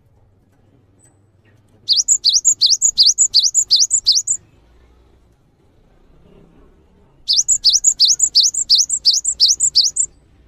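A songbird singing two phrases of rapid, high, upward-sweeping chirps, about four notes a second. Each phrase lasts about two and a half seconds, and there is a pause of about three seconds between them.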